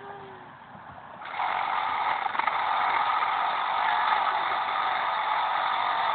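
Battery-powered saw switched on about a second in, its motor running steadily at speed, likely while cutting into the tree trunk.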